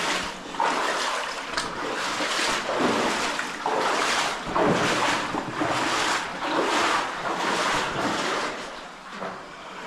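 Footsteps wading through water in a cave passage, an irregular run of splashing, sloshing steps.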